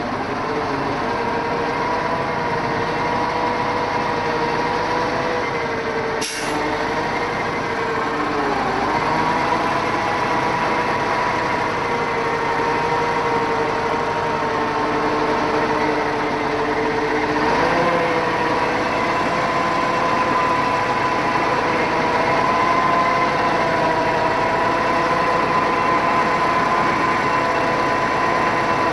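Heavy timber truck's diesel engine running steadily as the truck reverses, heard from inside the cab; the engine note shifts slightly about 8 and 17 seconds in. A single short click about six seconds in.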